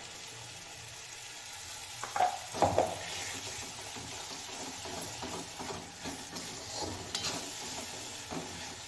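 Wet tomato, coriander-leaf and green-chilli paste sizzling as it hits hot oil and spices in a metal kadhai, stirred with a metal spatula that scrapes the pan. A couple of sharp knocks come about two seconds in.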